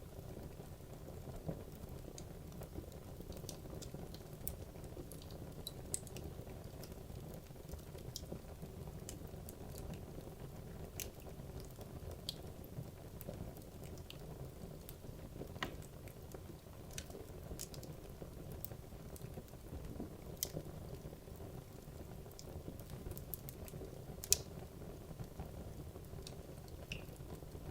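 Wood logs burning in a fireplace: a steady low rumble of flame with scattered sharp crackles and pops, one louder pop about 24 seconds in.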